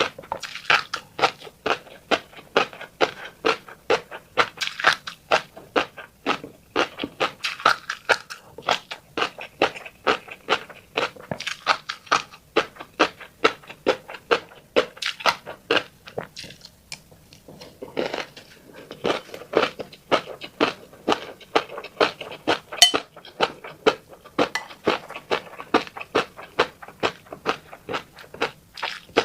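Close-miked eating sounds of fish roe being chewed: rapid, irregular wet clicks and pops many times a second, with a brief pause a little past halfway.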